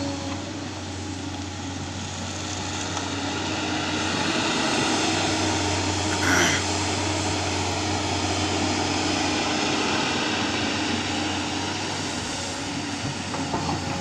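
Tata Hitachi excavator's diesel engine running steadily, growing somewhat louder over the first few seconds, with a brief high-pitched squeak about six seconds in.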